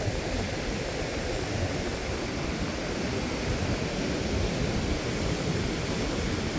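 Steady rushing noise of ocean surf and wind at the beach, with no distinct events.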